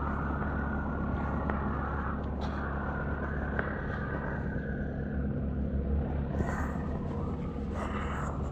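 An engine running steadily, a low rumble with a few faint clicks over it.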